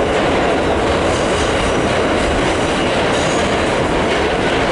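New York City subway D train running at speed, heard from inside the car: a steady, loud rumble and rattle of wheels on the rails.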